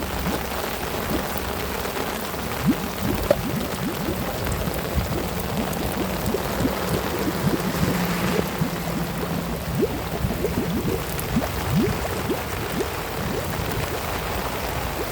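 Floodwater gurgling and swirling down a storm drain that has just been freed of a leaf clog, with many short bubbling gulps. Steady rain falls on the water throughout.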